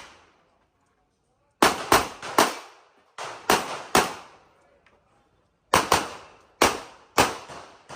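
CZ Shadow 2 pistol fired in quick strings of rapid shots, each crack echoing briefly. After a short quiet, three shots come, then three more, then a faster string of four or five near the end, with brief pauses between strings as the shooter moves between targets.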